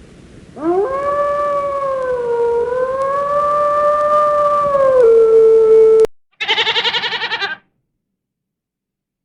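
A canine howl: one long, wavering, pitched howl lasting about five seconds that cuts off abruptly. About half a second later comes a short, quavering animal bleat.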